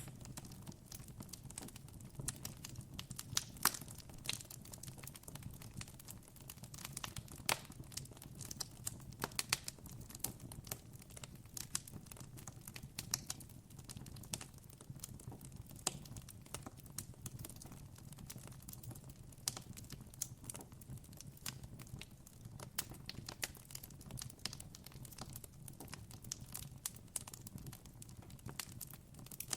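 Campfire crackling: irregular sharp pops and snaps of burning wood, some louder than others, over a steady low rumble.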